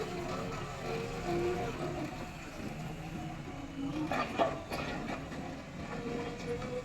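JCB backhoe loader's diesel engine running, with shifting tones over a steady low rumble. A few sharp metallic knocks come about four seconds in.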